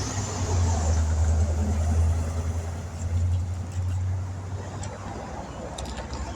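A motor vehicle's engine running nearby: a steady low rumble that fades out after about five seconds.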